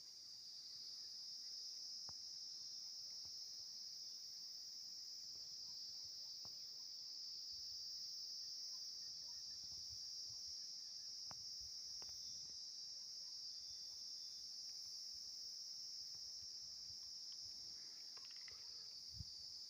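Steady, high-pitched insect chorus, with a few soft ticks now and then.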